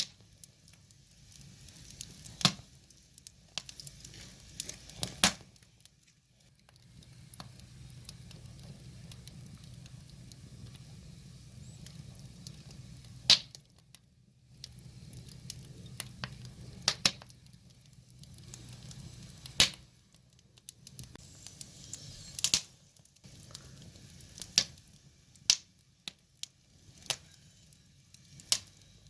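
Firewood fire crackling, with irregular sharp pops of burning wood, some loud, over a low steady rumble.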